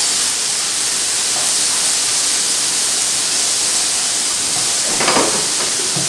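Chopped vegetables and garlic sizzling steadily in a hot frying pan as they are stirred with a spatula, with a brief louder sound about five seconds in.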